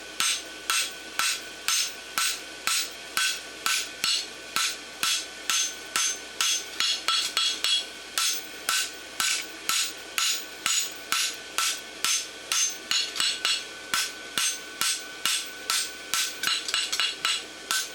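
Hand hammer beating a steel bar shoe on an anvil, flattening it out after a forge weld: a steady run of about two or three blows a second, each with a bright metallic ring.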